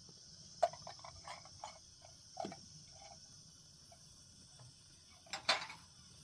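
A few scattered light knocks and clicks, the loudest about five and a half seconds in, over a steady high-pitched insect chirring.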